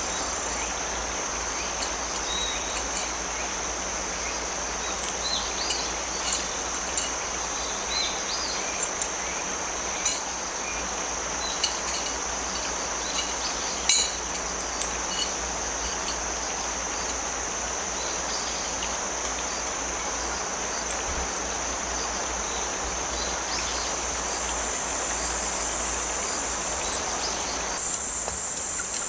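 Outdoor ambience of insects trilling steadily at a high pitch over a rushing creek, with small bird chirps and a couple of sharp clicks. About a second before the end a louder, rapidly pulsing cricket chirp takes over.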